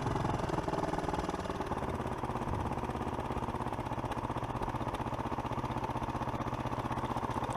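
Small engine idling steadily with an even, rapid pulse.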